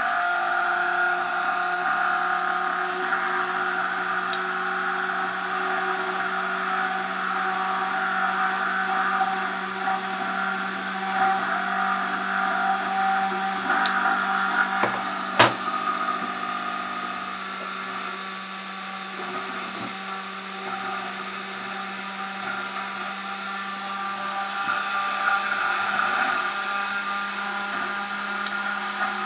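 High-speed electric generator rotor on magnetic levitation bearings, spinning fast with a steady motor-like whine made of several fixed tones. A single sharp click comes about halfway through.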